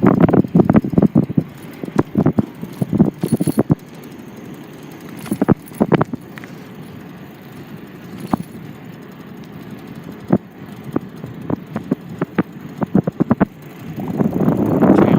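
Rattling and clattering from a ride over a bumpy road, with irregular sharp knocks and clicks throughout. The rumble is louder in the first second and again near the end.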